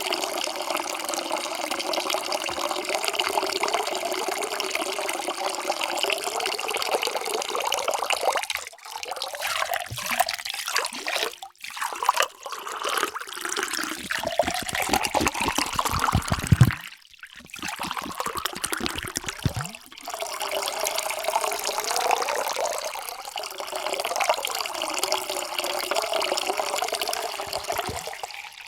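Water pouring into a vessel, its ringing tone rising in pitch as the vessel fills. The pour stops and starts a few times.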